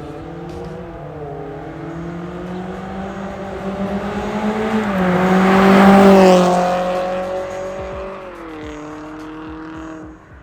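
Toyota Corolla Cross 1.8 with an MS-R valved cat-back exhaust driving past under acceleration. Its exhaust note climbs and grows louder to a peak about six seconds in, then fades as it goes by. The pitch steps down twice, about five seconds in and again near the end.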